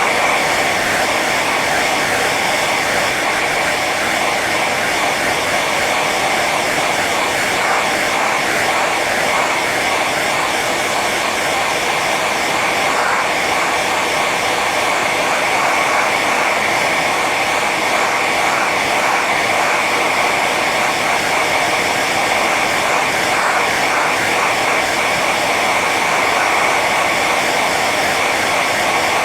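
Hair dryer running steadily on its high setting: a constant rush of blown air with a steady whine from the fan motor.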